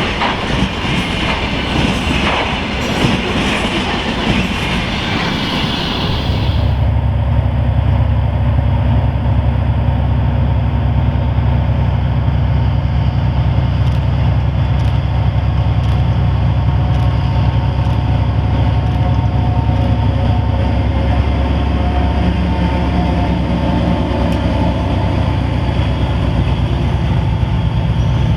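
Freight wagons rolling past with wheel clatter and rail hiss for the first six seconds, then, after a sudden change, diesel locomotive engines running with a steady, loud low hum.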